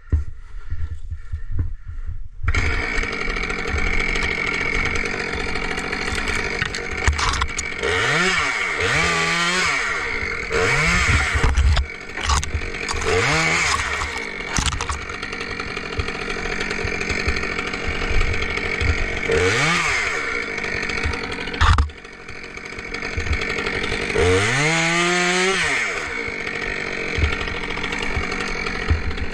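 Chainsaw running at high revs, coming in suddenly about two and a half seconds in. Its engine pitch dips and climbs back up several times.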